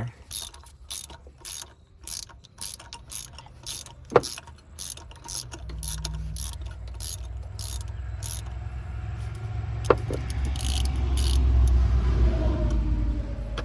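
Ratchet wrench clicking in short runs while loosening a spark plug on a V6 engine. About halfway through, a low rumble starts and grows louder.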